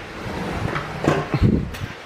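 Dull thumps and knocks of furniture being handled and shifted, bunched together about a second in.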